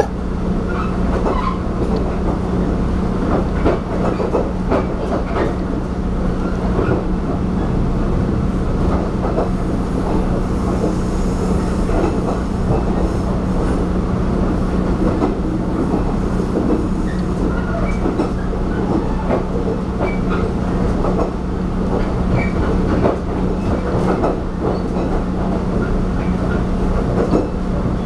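Taiwan Railway diesel railcar running along the track, heard from inside the carriage: a steady rumble with a constant low hum and many scattered rattles and clicks from the wheels and car body.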